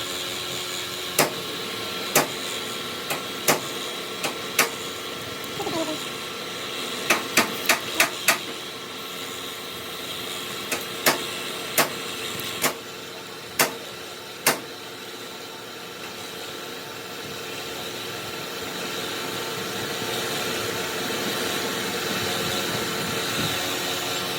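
Hammer striking metal parts, about a dozen sharp knocks with a quick run of five around seven seconds in, stopping about halfway through, over a steady machine hum.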